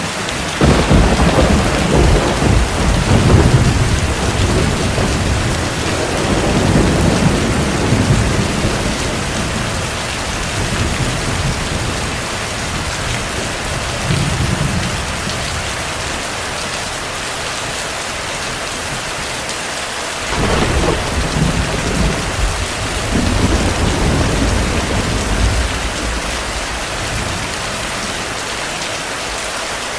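Steady heavy rain with rolling thunder. One long rumble breaks about half a second in and rolls on for several seconds, a weaker one comes about halfway through, and another sudden rumble breaks about two-thirds of the way through.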